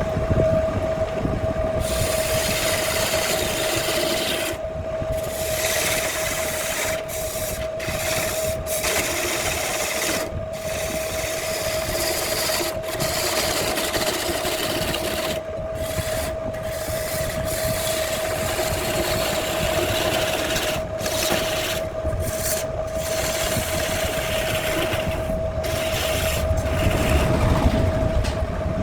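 Handmade wood lathe running with a steady whine while a turning tool scrapes and cuts the spinning branch wood. The cutting hiss breaks off briefly now and then.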